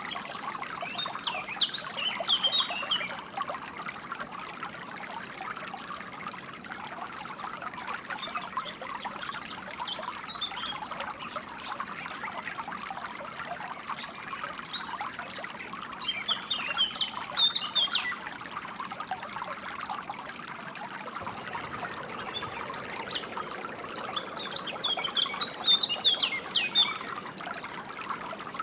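A small stream trickling steadily, with songbirds singing quick bursts of high chirps over it four times.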